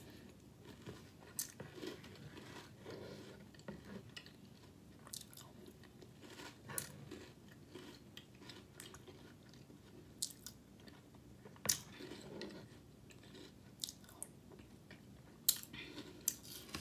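Close-up chewing and crunching of a mouthful of cereal in milk, with a metal spoon clinking sharply against the bowl a dozen or so times at uneven intervals.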